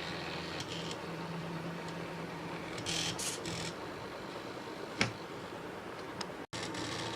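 Small motors of a DIY mini CNC plotter running in short moves: a low hum that starts and stops, with brief bursts of higher buzzing about three seconds in and a single click about five seconds in.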